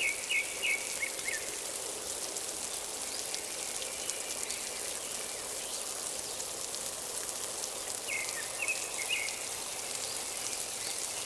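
Outdoor ambience in a lowland forest garden: a steady high hiss with a bird calling a quick run of four or five short chirps at the start and again about eight seconds in.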